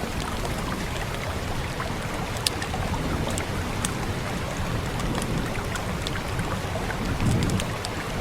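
Fireplace crackling with scattered sharp pops over the steady rush of rain.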